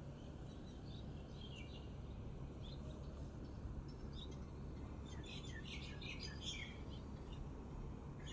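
Small birds chirping in quick, high twitters, scattered at first and then a dense flurry about five to seven seconds in, over a steady low background hum.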